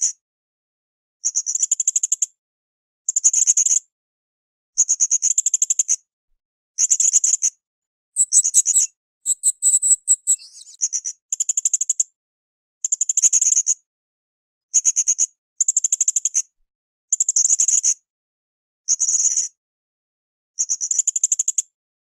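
Blue-crowned hanging parrot (srindit) calling: about thirteen rapid, high-pitched trilled phrases, each under a second long, coming every second or so. About halfway through comes a more varied, higher-pitched burst.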